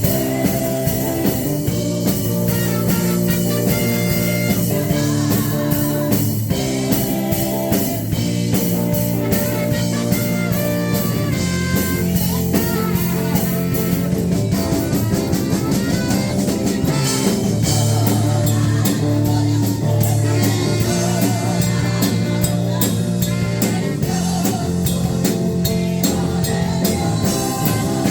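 Live praise band playing a worship song with electric guitar, bass and drum kit.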